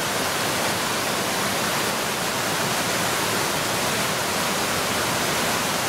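Mountain stream rushing over rocks: a steady, even hiss of running water.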